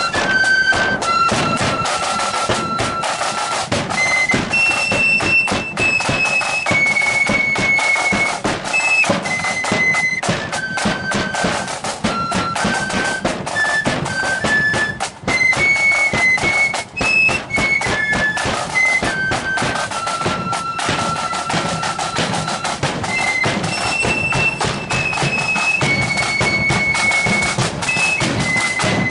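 Marching flute band playing a tune on flutes in unison over drums.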